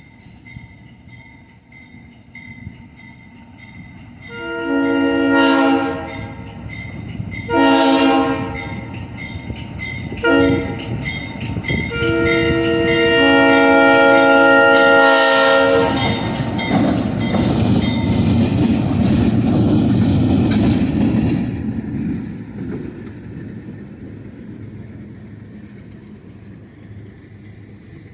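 Diesel locomotive air horn sounding the grade-crossing signal: long, long, short, long, with a bell dinging steadily before it. The train then rumbles past and fades away.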